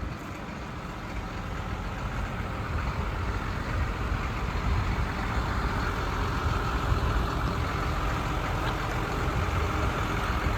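Diesel engine of a 2020 Hino 338 box truck, a 260 hp Hino J08E inline-six, idling steadily.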